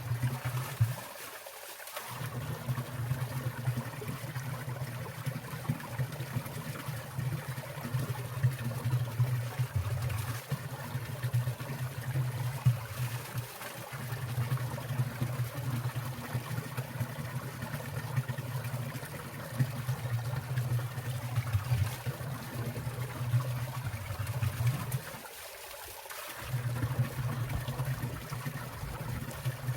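Water trickling and dripping in a winter valley stream, from icicles and falling meltwater. Under it runs a steady low rumble that drops away briefly twice, about a second and a half in and again near the end.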